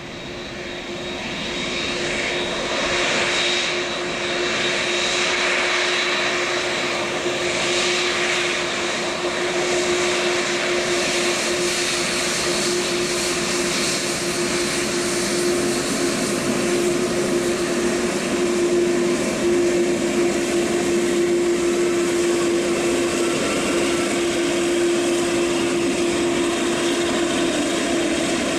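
Boeing 787-8 Dreamliner's jet engines running at taxi power as it lines up on the runway: a steady tone over a broad rush of engine noise, which swells over the first few seconds and then holds even.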